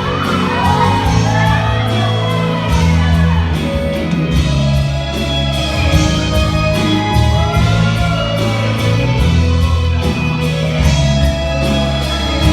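Live gospel band music with drums, bass and keyboard, and a lead melody line that slides and bends in pitch over them.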